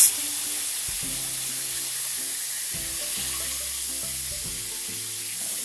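Boiled eggs and potatoes frying in hot mustard oil in a kadai, with a steady sizzle throughout.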